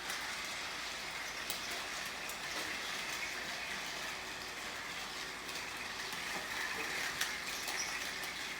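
Several battery-powered TrackMaster toy trains running together on plastic track: a steady whir of small motors with scattered light clicks.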